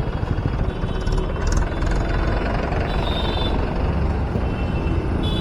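Steady low rumble of the vehicle being driven, with city traffic noise in slow, jammed road traffic. A faint high tone sounds briefly about three seconds in.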